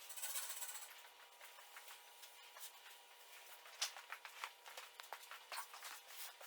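Faint scattered ticks and rustles of handling, with a short airy hiss in the first second and a faint steady hum underneath.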